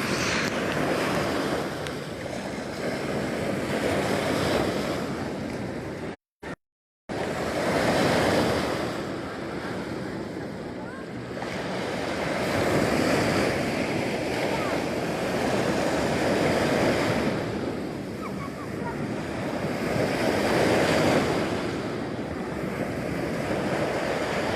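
Sea waves surging and washing on the shore, the rush swelling and ebbing every four seconds or so. The sound cuts out completely for about a second around six seconds in.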